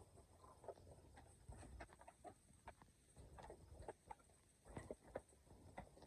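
Faint clucks of domestic fowl, with scattered light taps among them.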